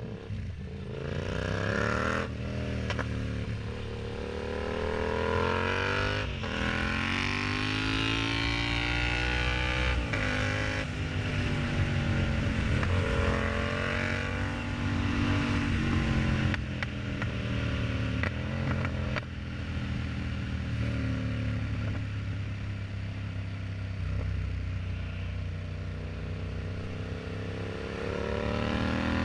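Yamaha MT-07's 689 cc parallel-twin engine through an aftermarket exhaust, pulling hard with its pitch rising and then dropping suddenly several times, as with upshifts while riding through the gears.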